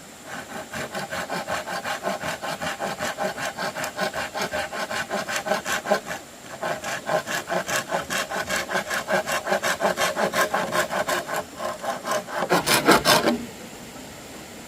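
Hand saw cutting through bamboo in steady back-and-forth strokes, about three a second, the hollow culm ringing with each stroke. The sawing pauses briefly about six seconds in, then ends with a quicker, louder run of strokes that stops abruptly.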